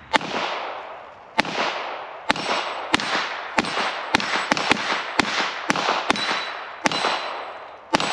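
.22 LR semi-automatic pistol fired about thirteen times in a rapid string at an uneven pace, quickest in the middle. Each shot is a sharp crack with a short echo tail.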